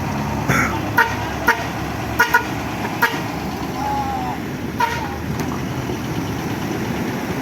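A run of short vehicle horn toots, about seven quick beeps in the first five seconds, some in close pairs, over the steady rumble of engines and traffic.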